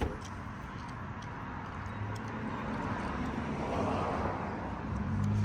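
A vehicle engine running with a low hum that grows steadily louder toward the end, with a few light clicks over it.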